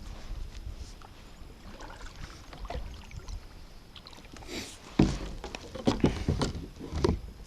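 Kayak on the water: a soft swish, then a quick run of hollow knocks and bumps against the hull about five seconds in, over a low rumble of water and wind.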